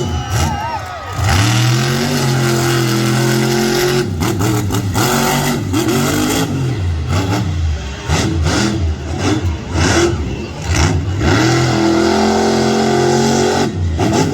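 A vehicle engine running at steady revs, then revved up and down many times in quick succession through the middle, then held steady again.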